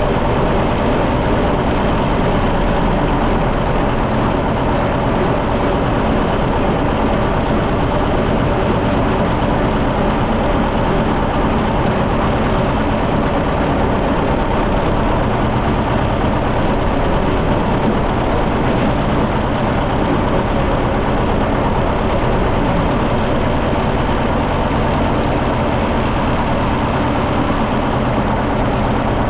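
John Deere 730 tractor's two-cylinder engine running steadily at an even pace.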